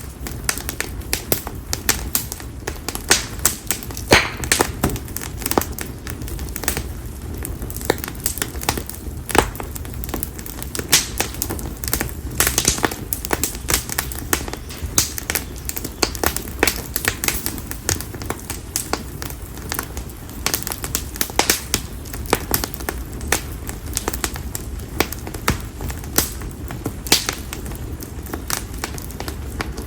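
Split konara oak firewood burning in a campfire, crackling and popping in a dense, irregular run of sharp snaps over a steady low rumble.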